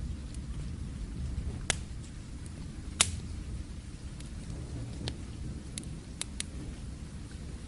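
Wood fire crackling: a handful of sharp, scattered pops, the loudest about three seconds in, over a low steady rumble.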